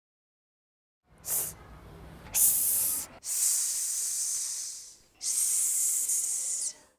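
A person's voice making the pure phonics 's' sound: a drawn-out hiss given three times, each lasting one to two seconds, with brief gaps between them, after a shorter breathy hiss about a second in.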